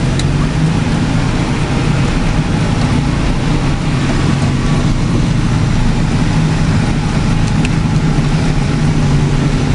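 Farm tractor engine running steadily with an even, low hum.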